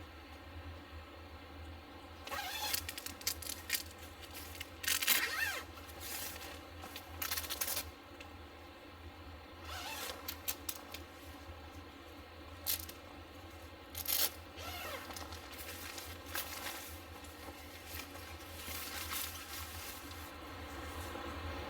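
A series of short scraping and rustling sounds from objects being handled, a few seconds apart, over a steady low hum.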